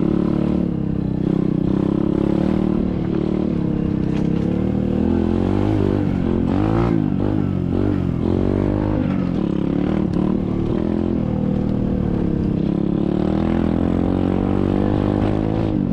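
SSR 125cc dirt bike's single-cylinder four-stroke engine running under way. Its pitch rises and falls several times around the middle as the throttle is worked, then settles back to a steady drone.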